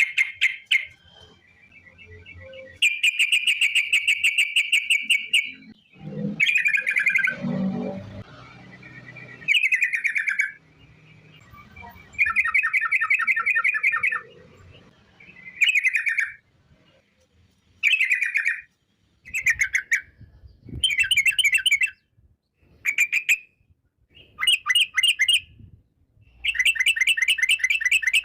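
Yellow-vented bulbul (trucukan) singing its fast rolling 'ropel' song: repeated bursts of rapid trilled chattering notes, each one to three seconds long, with short pauses between.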